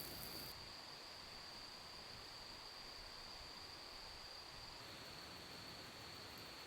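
Faint, steady high trill of crickets, one unbroken tone over a soft hiss.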